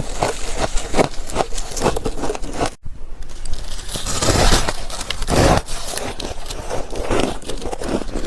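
Chunks of freezer frost being bitten and crunched close to the microphone, a rapid run of crisp crunches. The crunching breaks off abruptly about three seconds in and starts again a moment later.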